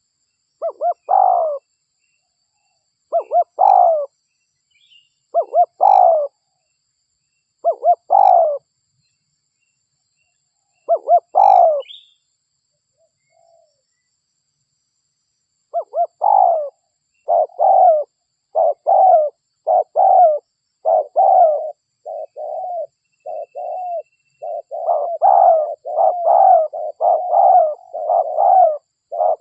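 Spotted dove (derkuku) cooing. It gives five separate coo phrases about two to three seconds apart, then after a pause of a few seconds a fast run of coos, several a second.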